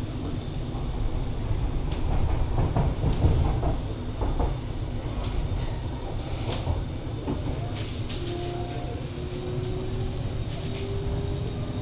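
Cabin noise of an MTR East Rail Line R-Train electric multiple unit running on the line: a steady low rumble of wheels on track with scattered clicks, and from about two-thirds of the way in a faint whine that slowly rises in pitch.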